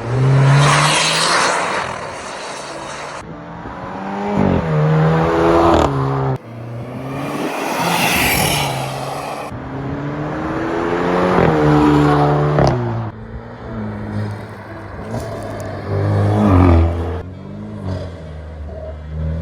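Alfa Romeo Giulia's 2.0-litre turbocharged four-cylinder running through a straight AFE axle-back exhaust with the resonator deleted, accelerating through the gears. Its pitch climbs and then drops at each of three upshifts, with spells of loud rushing hiss in between.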